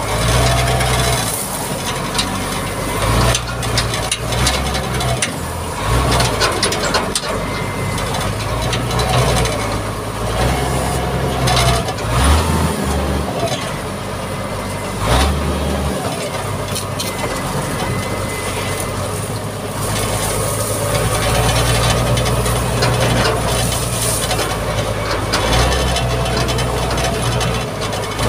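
Mitsubishi MG330 motor grader's diesel engine running steadily under load, with scattered knocks and clatter.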